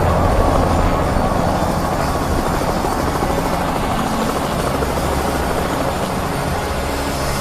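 Steady, loud, low mechanical drone with a throbbing low pulse, like a helicopter's rotor and engine, easing off slightly.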